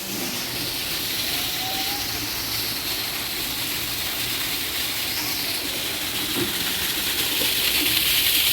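Heavy rain falling, a steady dense hiss that gets a little louder about seven seconds in.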